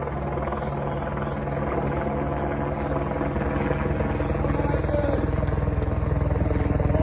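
An engine running steadily at one pitch, with a fine even pulsing, growing slightly louder.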